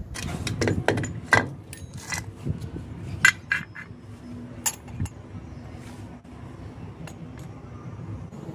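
Hard objects clinking and knocking as they are handled, several strikes ringing briefly, most of them in the first five seconds and fewer after, over a low steady hum.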